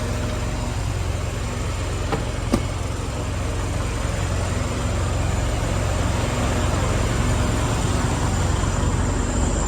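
Engine idling with a steady low rumble, and a single sharp click about two and a half seconds in.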